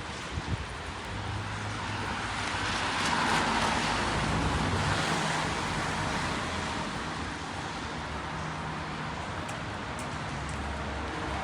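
A car passing on a wet street: the tyre hiss swells to a peak about three seconds in and then fades, and another vehicle approaches near the end.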